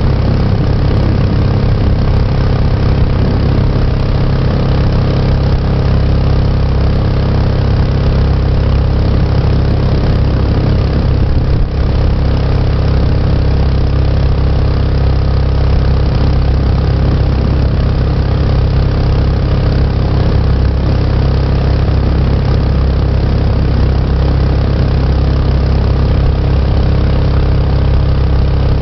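Mokai jet boat's engine running steadily under way, a loud constant hum with no change in speed.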